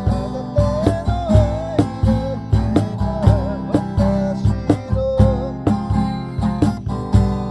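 Acoustic guitar strummed in a steady rhythm, with a single wavering melody line carried over it.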